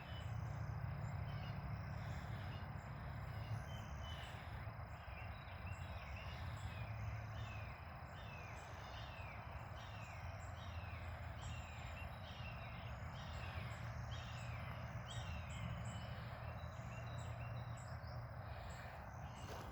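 Outdoor birdsong: a bird repeats a short, falling chirp over and over, roughly once a second. Behind it runs a steady high drone and a low background rumble.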